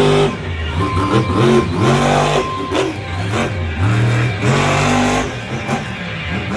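Monster truck engine revving hard in repeated surges, its pitch climbing and dropping three or four times as the throttle is worked during a freestyle run.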